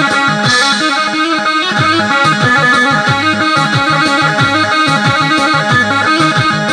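Keyboard music from an Oriental arranger sound set: a melody over a repeating bass-and-percussion rhythm pattern, running steadily.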